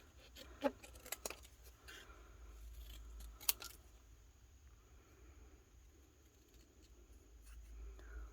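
Scissors cutting a small paper tag: a few faint snips and paper rustles, the sharpest snip about three and a half seconds in.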